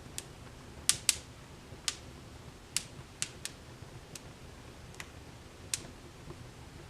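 Wood fire burning in a fireplace: irregular sharp crackles and pops, about ten, the loudest pair close together about a second in, over a faint low rumble of the flames.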